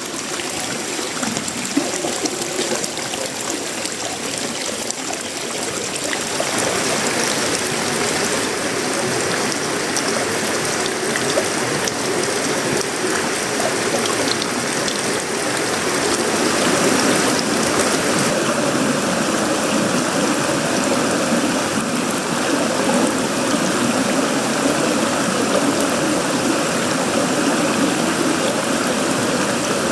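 Heavy tropical rain falling on sheet-metal roofing, wood and leaves as a steady rush. It grows louder about six seconds in and again around sixteen seconds in.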